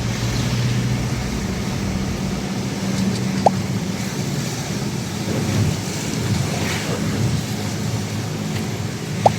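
Steady low rumble of a motor vehicle running, with a faint hum, broken by a couple of short high chirps.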